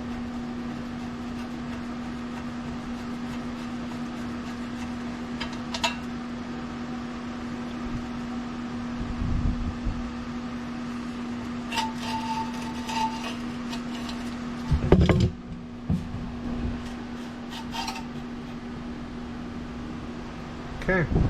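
Small metal engine parts and tools clinking and tapping as a small engine is taken apart by hand, with a short metallic ring about halfway through and a couple of dull knocks later. A steady hum runs underneath.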